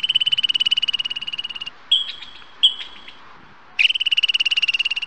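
A squirrel's chattering alarm call: two rapid, pulsing trills of a second or more each, with a few short high chirps between them.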